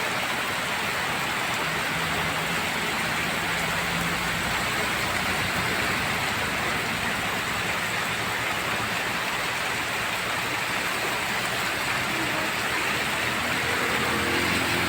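Heavy rain pouring steadily onto a road, an even hiss. A vehicle engine comes in faintly under the rain near the end.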